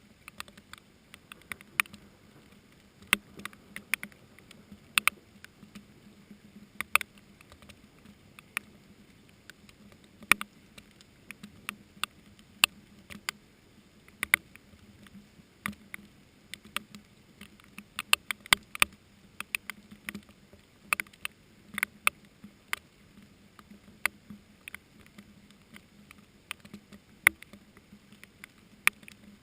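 Scattered raindrops tapping close to the microphone: irregular sharp taps, a few a second and some much louder than others, over a faint steady low hum.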